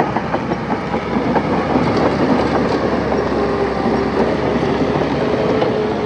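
Crawler bulldozer running under load, its engine droning under a dense, continuous clanking of steel tracks.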